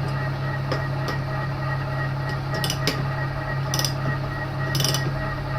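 Milling machine running steadily with a carbide cutter slowly milling a snapped steel exhaust stud flat. A few short, sharp, high-pitched scrapes come about 2.5 to 5 seconds in as the cutter bites the metal.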